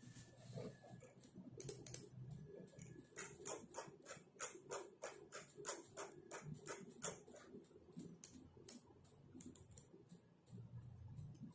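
Typing on a computer keyboard: a fast run of keystroke clicks about three seconds in, thinning to scattered taps near the end.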